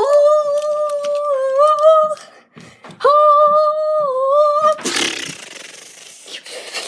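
A child's voice holding two long, steady high wailing notes of about two seconds each, with a short break between them, followed by a brief rushing burst of noise.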